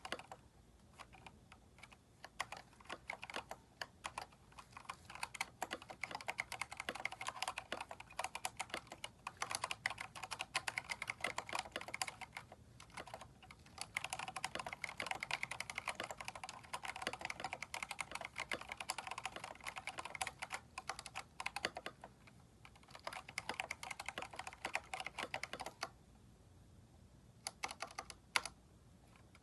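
Typing on a Keychron K4 mechanical keyboard fitted with aftermarket keycaps, in fast runs of keystrokes broken by short pauses. The typing stops near the end, then a few last keystrokes.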